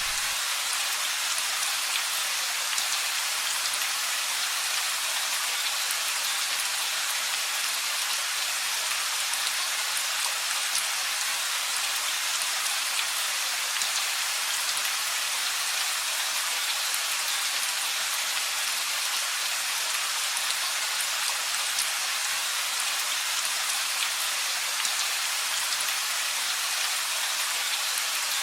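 Steady rain falling, an even hiss made of many small drop impacts, with no change in strength. The last of a low rumble dies away right at the start.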